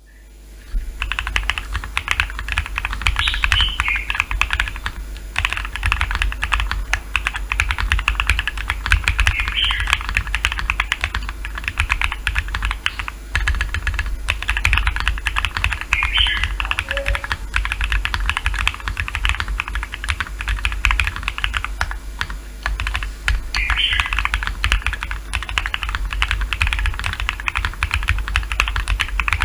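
Typing on a Bakeneko60 mechanical keyboard fitted with First Love switches (modified PC top housing, POM bottom housing, light factory lube): a fast, continuous run of key clacks that starts about a second in, with a few brief lulls.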